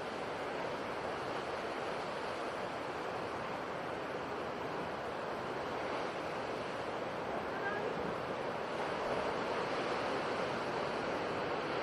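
Sea waves breaking and washing as steady surf, a continuous rushing noise that swells slightly near the end.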